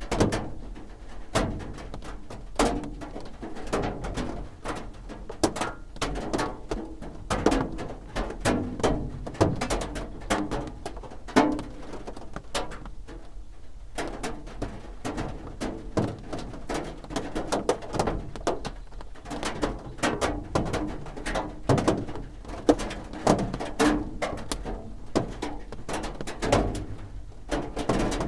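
Raindrops drumming on a roof: a dense, uneven patter of separate taps and knocks that keeps going.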